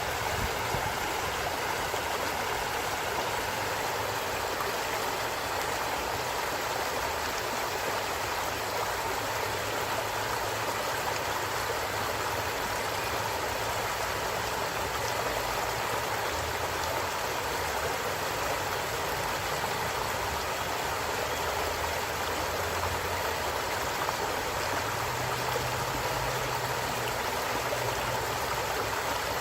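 Stream of water flowing steadily over rocks, a constant rushing and gurgling.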